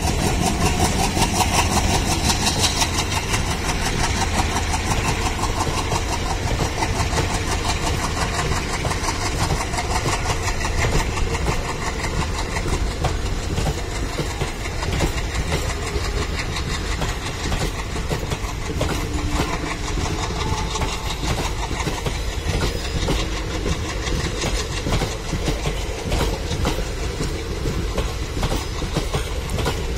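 Passenger coaches of a departing express train rolling steadily past, their wheels clattering over the rail joints, with the WDG-3A diesel locomotive hauling them working under load further off.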